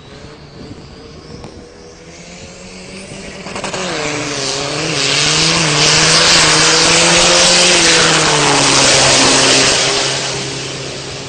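Single-turbo 3-litre four-cylinder Isuzu common-rail diesel in a drag-racing pickup making a full-throttle quarter-mile pass. The engine swells from a low level about three seconds in and wavers in pitch. It is loudest in the middle, then fades as the truck runs away down the strip.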